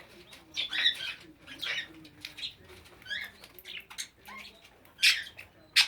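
English budgerigars chirping and chattering: a string of short, high chirps and little warbled notes, with two louder, sharp calls near the end.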